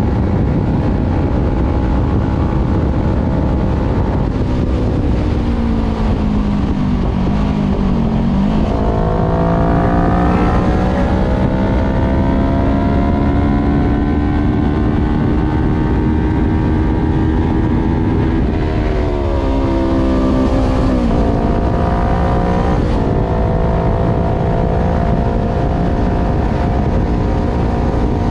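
Voge 500R's parallel-twin engine through a full exhaust with the dB killer removed, heard onboard while riding. The engine note drops as the bike slows, then climbs steadily under acceleration, drops again with a few quick jumps in pitch, and settles to a steady cruise.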